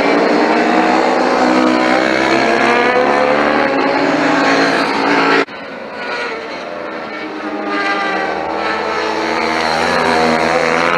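Superbike engines running hard at high revs as they pass on track. About halfway through the sound cuts off abruptly to a quieter engine that then builds up again as another bike approaches.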